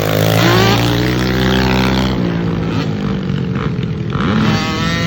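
Dirt bike engines running on a motocross track, their pitch rising and falling with the throttle; one engine holds a steady note for about two seconds before the sound turns rougher and more mixed.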